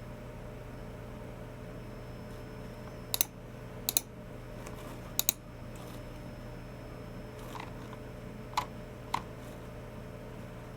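Sparse clicks from a Logitech MX Keys Mini keyboard and G304 mouse: three sharp double clicks between about three and five seconds in, then three softer taps. A steady low hum runs underneath.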